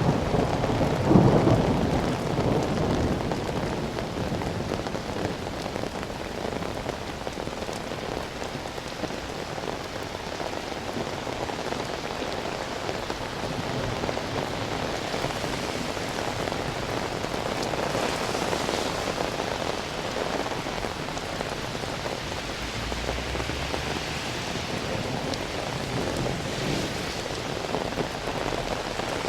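Steady rain falling, with a rumble of thunder swelling about a second in and fading over the next few seconds.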